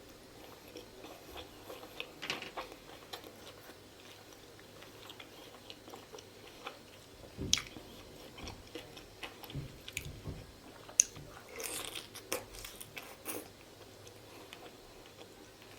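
Close-miked eating of steamed pork momos (dumplings): soft bites, wet mouth smacks and chewing, with scattered short clicks and a sharper smack about 11 seconds in.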